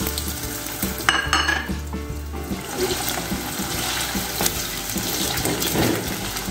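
Diced raw potatoes sizzling and crackling as they fry in hot oil in a pot, stirred with a spatula. A short ringing clink about a second in.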